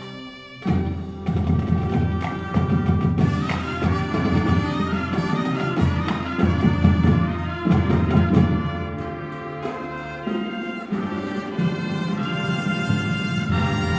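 College marching band playing a jazz show: brass and marching percussion come in with a sudden loud full-band hit under a second in, out of a soft held chord, then carry on with busy brass lines over drums.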